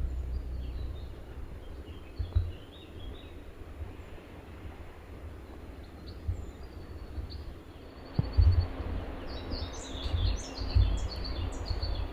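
Small birds singing in repeated chirping phrases over a steady background hiss, with low thuds and rumble underneath. The birdsong and thuds grow louder after about eight seconds.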